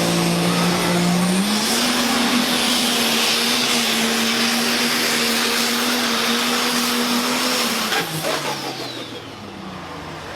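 International Harvester pulling tractor's engine running hard under load. Its pitch steps up about a second and a half in and holds steady, then breaks off near the end and falls away as the power comes off.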